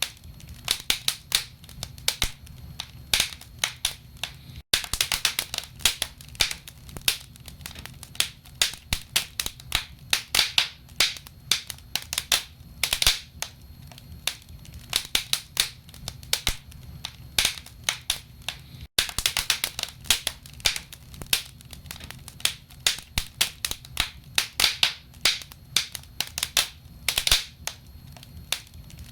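Wood logs burning in a fireplace, crackling: a dense, irregular run of sharp pops and snaps over a low steady rumble. The sound cuts out for an instant twice.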